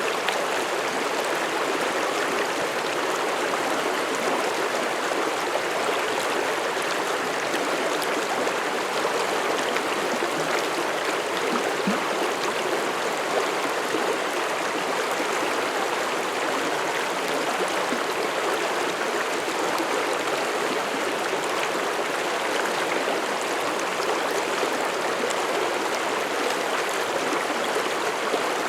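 Mountain stream rushing and babbling over rocks, a steady continuous water noise.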